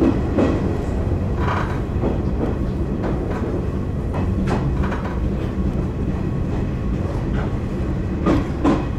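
Izuhakone Railway Daiyuzan Line electric train running along the track, heard from inside the front car: a steady low rumble with wheels clicking over rail joints at uneven intervals, and a louder pair of clacks near the end.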